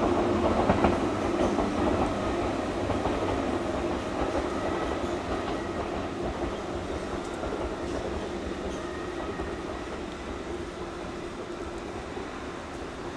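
Four-car 115-series electric train running along the track, its running noise fading steadily as it moves away.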